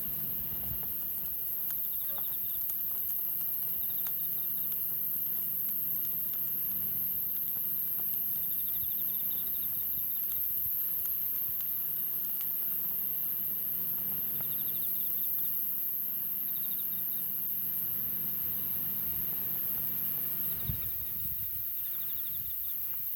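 Wood campfire burning with sparse small crackles and pops, grilling meat giving little sizzle. Insects trill in short repeated bursts over a steady high whine.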